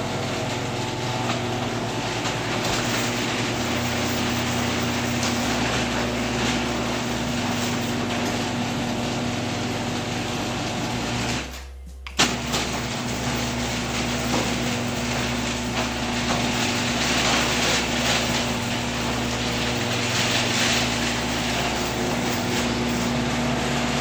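Garage door opener running a sectional garage door on new Ultra-Life MAX 2 nylon ball-bearing rollers: a steady motor hum with the rumble of the door travelling in its tracks. It stops briefly about halfway through, then runs again.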